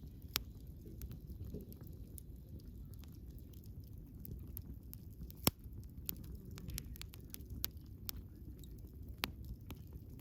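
Wood fire burning: a low steady rumble of the flames with irregular crackles and pops of burning wood, one sharper pop about five and a half seconds in.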